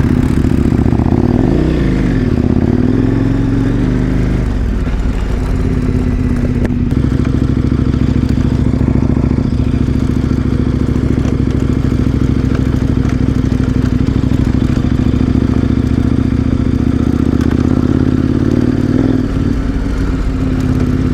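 KTM 1090 Adventure R's V-twin engine running as the motorcycle is ridden. The engine pitch drops and climbs again between about one and four seconds in, holds steady at cruising revs, then dips and rises once more near the end.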